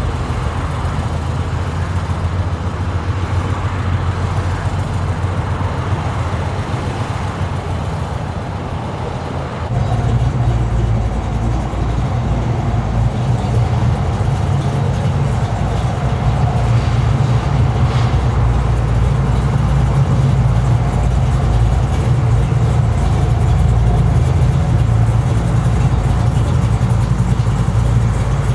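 Car engine running, a steady low-pitched sound that gets louder about ten seconds in and holds there.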